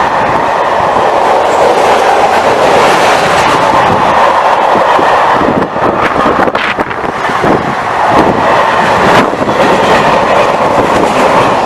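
A train passing close by, with a loud, steady rush of wheel and rail noise and a few short clatters in the second half.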